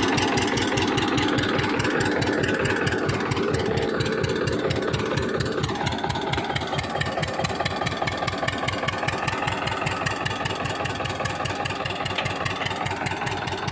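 Tractor diesel engine running with an even, rhythmic firing beat; its pitch wavers and then drops about six seconds in, settling lower.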